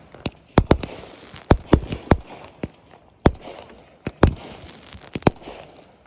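Fireworks going off: an irregular run of about a dozen sharp bangs in six seconds, each with a short echoing tail, with crackle between them.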